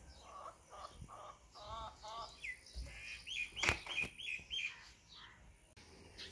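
Small birds chirping: a few short repeated calls, then a quick run of about five higher hooked notes. A single sharp knock sounds partway through the run.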